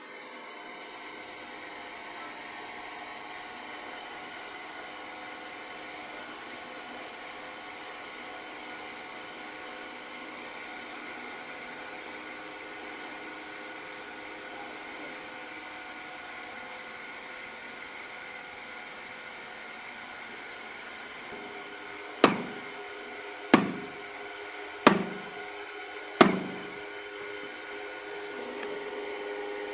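A steady mechanical hum with several fixed tones, like a small motor running. Near the end come four sharp knocks, evenly spaced about a second and a half apart.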